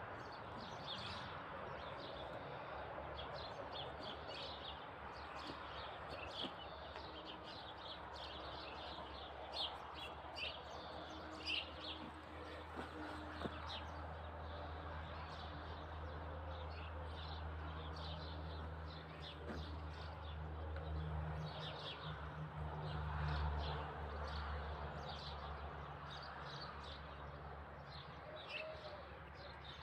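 Small birds chirping with many short, high calls throughout. From about halfway in a low steady hum, like a distant motor, rises underneath and is strongest near the end.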